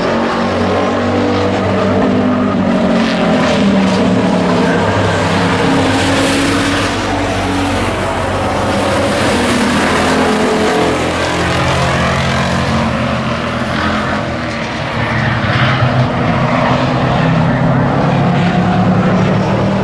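Several stock race trucks' engines running hard around an oval track, their overlapping engine notes rising and falling as the trucks pass. The sound eases briefly a little past halfway, then builds again.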